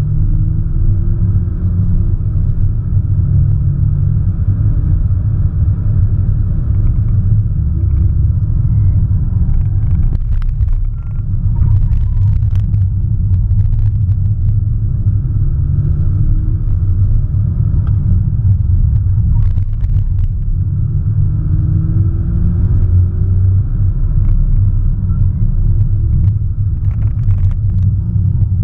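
Audi S1 Sportback's 2.0-litre turbocharged four-cylinder heard from inside the cabin while driving at speed, a heavy low rumble with the engine note rising and falling. A few brief knocks stand out over it.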